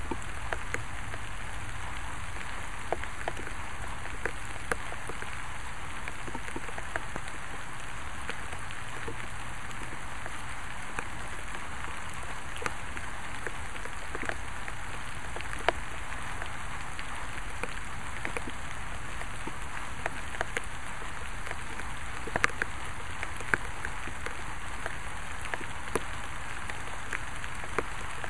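Steady rain falling, a continuous hiss with scattered louder drops ticking sharply on a nearby surface.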